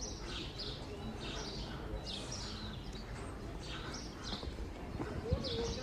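Small birds chirping again and again in short high calls, over steady low background noise, with one sharp click about five seconds in.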